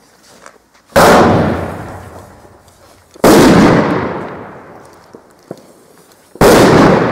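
Three loud firework bangs, two to three seconds apart, each followed by an echo that trails off over a couple of seconds.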